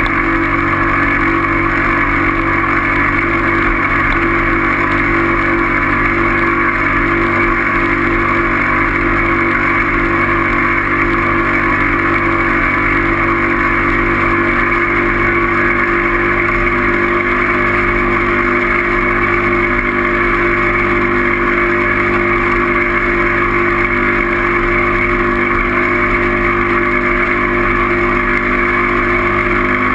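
A steady, unchanging engine-like drone of a vehicle running at constant speed, loud throughout with no change in pitch or level.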